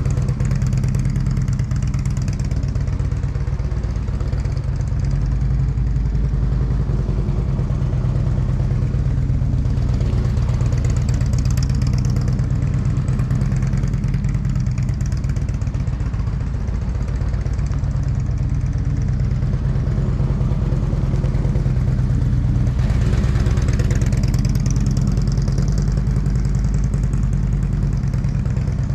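Motorcycle engine running steadily at low revs, with no big revving.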